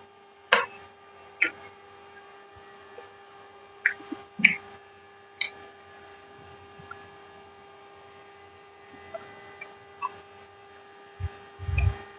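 Someone eating: scattered short mouth smacks and clicks, about ten of them at irregular intervals, with a brief low thump near the end, over a steady faint electrical hum.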